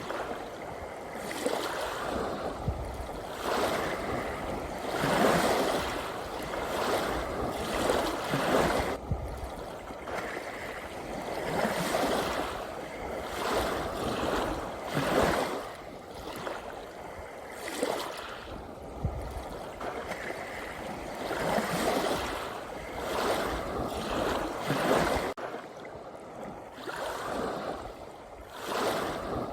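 Small sea waves breaking and washing in, the noisy surge swelling and falling back every two or three seconds.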